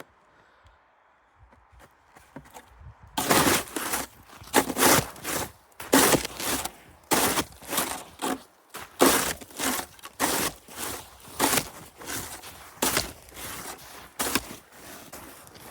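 Crusted deep snow crunching and breaking under repeated strokes, roughly two sharp crunches a second, starting about three seconds in.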